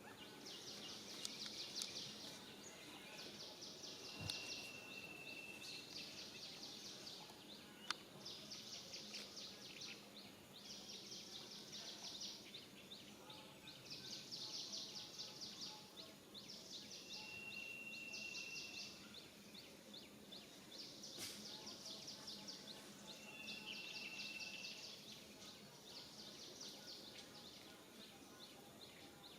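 Faint insects chirping in repeated high trills, each a second or two long, with four short steady whistles among them.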